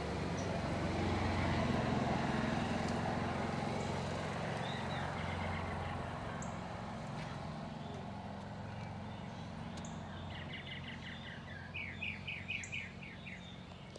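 A low, steady background rumble, loudest in the first few seconds and fading after, with a small bird chirping quick runs of short, falling notes from about ten seconds in.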